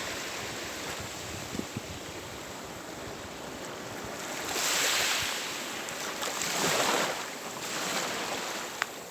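Sea waves washing onto the shore, a steady hiss with two louder surges, one about halfway through and another about a second later.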